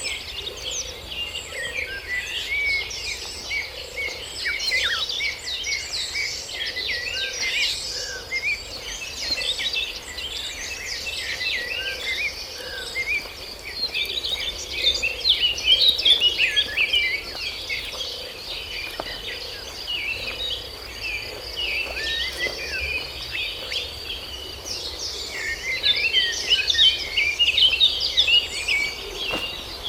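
Tropical forest chorus: many birds chirping and calling over a steady high insect drone, busiest about halfway through and again near the end.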